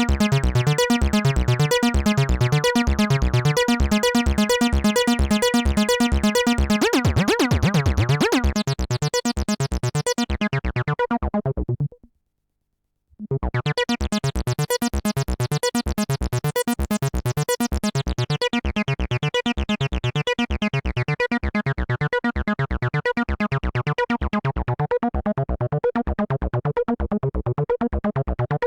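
Behringer TD-3-MO 303-style bass synthesizer playing a fast, looping step-sequenced bassline with a filter being swept. The sequence stops dead for about a second roughly midway, then starts up again.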